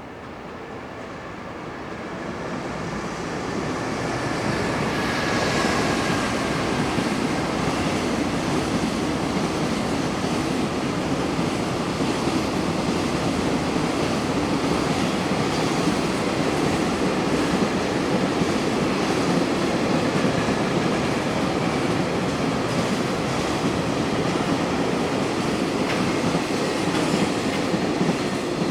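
Freight train passing through a station on welded rail: the rumble of wheels and wagons swells over the first few seconds, then runs on steadily with faint clicks from the wheels.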